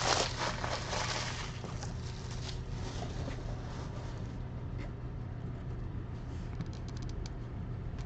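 Plastic wrapping crinkling as a baseball card hobby box is opened, fading after about a second and a half, then soft rustling and small clicks of packs and cards being handled.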